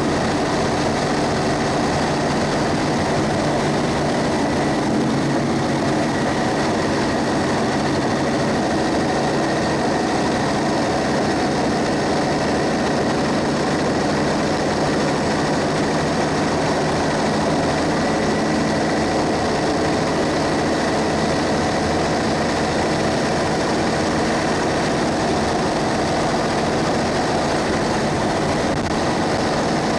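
A school bus's Cummins ISB 6.7-litre diesel engine running steadily, heard from inside the bus, under a constant hiss of road and rain noise.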